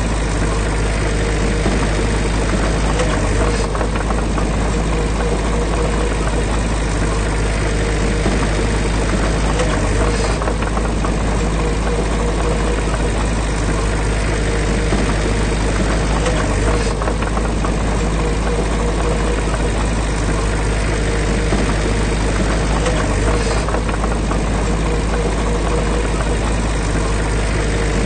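Heavy diesel engine of construction machinery running steadily, with no change in pitch or load.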